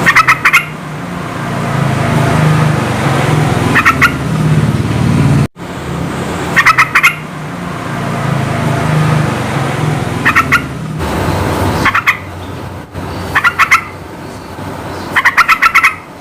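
Yellow-vented bulbul (trucukan) calling in short, quick bursts of three to five bright notes, a burst every one to four seconds. A steady low rumble runs underneath, with a brief cut about five and a half seconds in.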